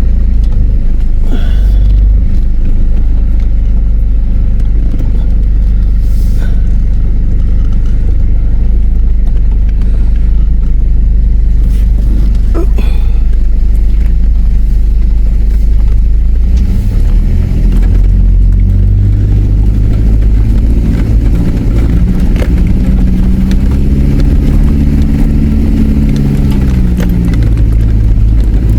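Four-wheel drive being driven along a rough dirt track: a heavy steady rumble with a few sharp knocks early on, then, past the middle, the engine note rising and falling again and again as the driver works the throttle.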